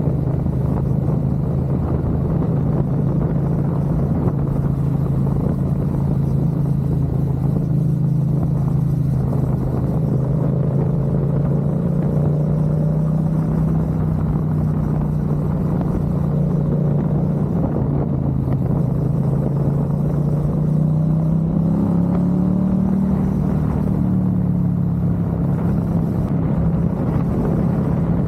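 Motorcycle engine running steadily while riding, with road noise; its pitch sags a little, then rises slightly about twenty-one seconds in.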